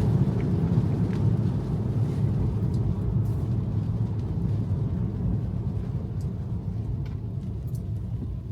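Tyre and road noise of a Tesla on a wet city street, heard inside the cabin: a steady low rumble that slowly fades across the few seconds.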